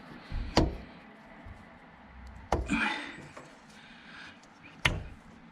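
Three sharp knocks about two seconds apart, the second followed by a brief rustle: hard objects being handled and set down, with the machine's engine not running.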